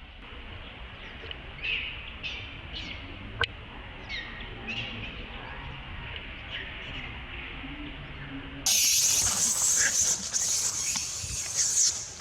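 Short high chirps, about one a second, then about two-thirds of the way through a sudden loud, harsh, hissing noise that runs until just before the end.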